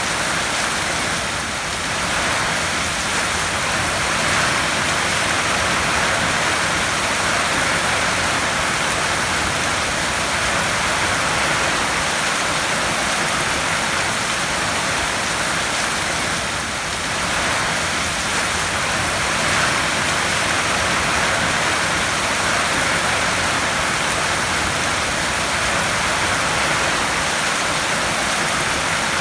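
Heavy rain falling on a tin roof: a dense, steady hiss of countless drops with no single hits standing out.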